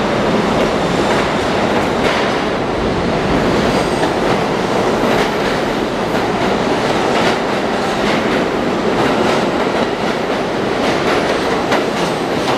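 New York City Subway R42 train running on the tracks, with a steady rumble and repeated clicking of its wheels over the rail joints, the clicks coming more often from about five seconds in.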